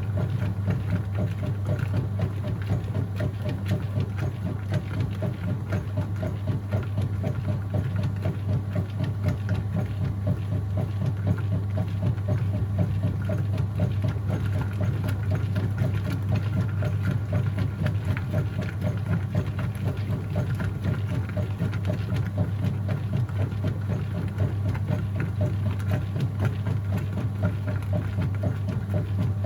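Whirlpool top-load washing machine running mid-cycle: a steady motor hum with a fast, even pulsing swish of water and laundry above it.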